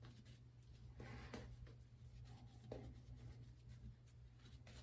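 Near silence with a steady low hum and a few faint, short scraping rubs.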